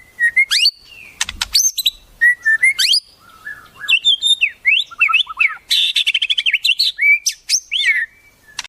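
Songbird song played as a bird-song tutor recording: a rapid, varied run of whistles and rising and falling sweeps, with a fast rattling trill a little past halfway.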